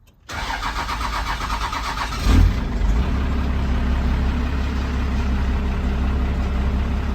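12-valve Cummins 5.9 L inline-six turbodiesel being started: the starter cranks it with a quick, even rhythm for about two seconds, it catches with a loud burst, then settles into a steady idle.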